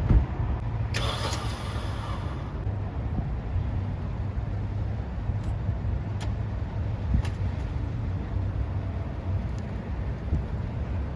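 Car engine running with a steady low rumble as the car is moved, with a brief rush of noise about a second in.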